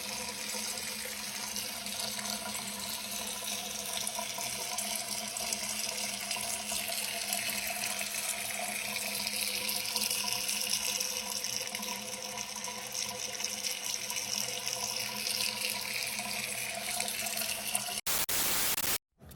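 Water running steadily from a tap, with a faint steady hum beneath it; it stops abruptly near the end.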